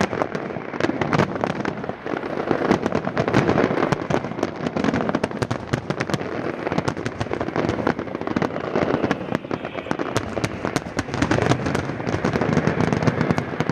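Aerial fireworks in a dense barrage: rapid bangs and crackling, many reports a second, with no break.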